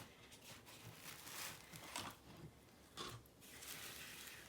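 Near silence with a few faint, soft rustling noises, about three, from hands handling things.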